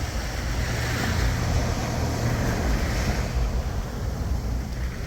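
Boat motor running steadily with a low hum, under a steady rush of wind on the microphone and water against the hull.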